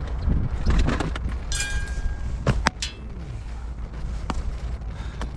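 An iron hammer striking a large lump of coal: a series of sharp knocks, one with a brief metallic ring. A steady low wind rumble sits on the microphone underneath.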